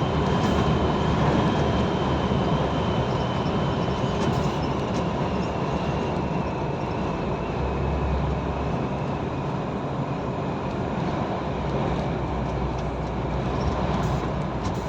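Steady engine and road noise inside the cab of a moving truck, with a faint high whine that slowly drops in pitch.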